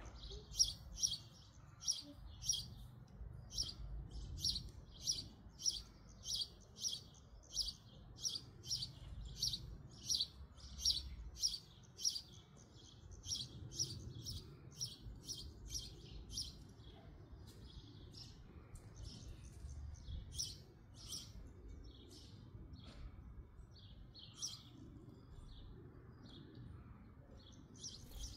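A small bird chirping repeatedly, short high chirps about twice a second that thin out and grow irregular after about twelve seconds, over a low background rumble.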